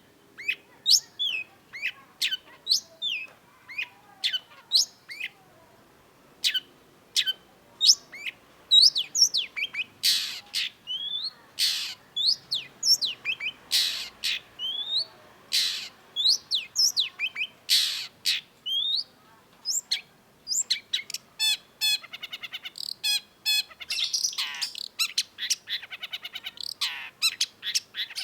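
Long-tailed shrike singing: a quick run of short, sharp downward-sweeping whistles, with loud harsh notes in the middle and fast rattling trills in the last third.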